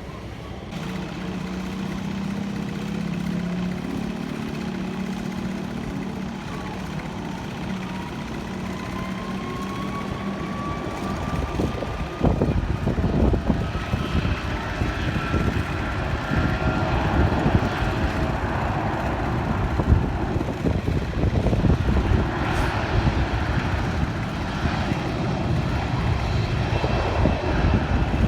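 Jet airliner's engines passing by: a whine slowly rising in pitch, joined about twelve seconds in by a loud, fluttering rumble that holds to the end.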